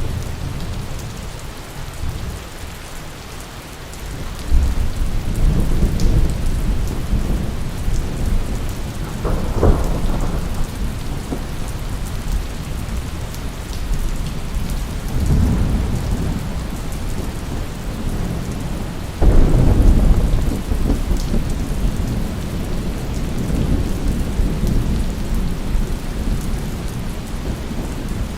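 Steady heavy rain with rolling thunder. The rumbles swell in about four seconds in and again several times, and the loudest peal breaks in suddenly about two-thirds of the way through.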